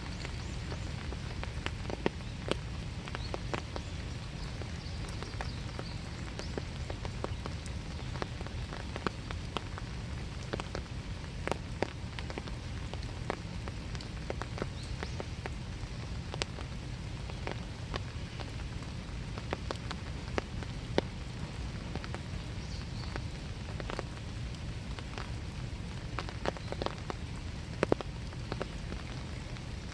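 Steady winter rain falling in a small wood, with scattered sharp ticks of single drops landing close by at irregular moments.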